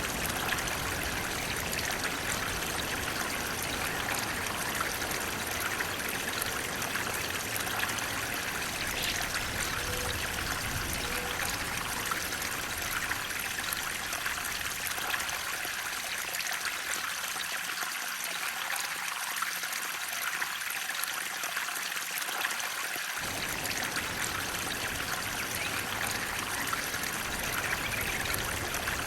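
Flowing water running steadily, a stream's continuous rush and trickle. Its deep rumble thins out in the middle and cuts back in suddenly about two-thirds through.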